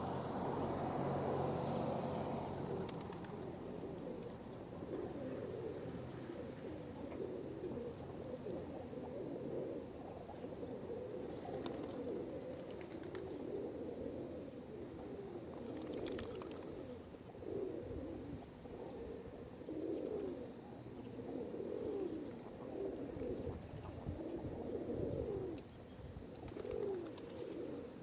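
A flock of feral pigeons cooing, many calls overlapping in a steady chorus that grows fuller in the second half.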